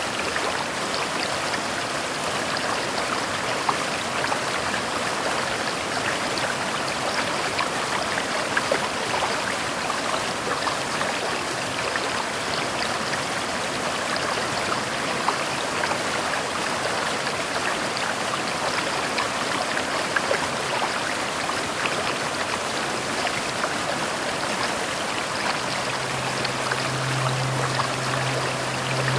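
Steady rain: an even hiss of falling water packed with fine pattering drops. A low steady hum comes in near the end.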